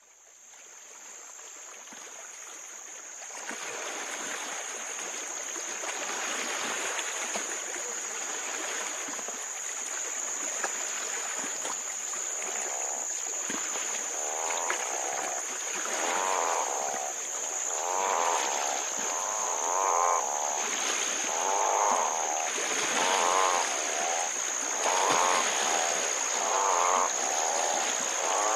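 Wildlife ambience of insects and frogs: a steady high insect drone fades in from silence, and after about twelve seconds repeated trilling croaks join it, roughly one a second and growing louder.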